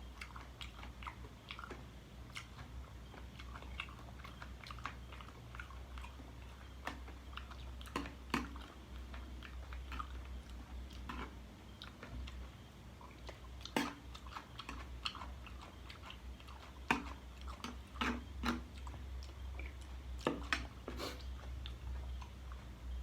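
A person chewing and biting spicy chicken-feet salad: irregular small crunching clicks of cartilage and skin, with a few louder bites scattered through.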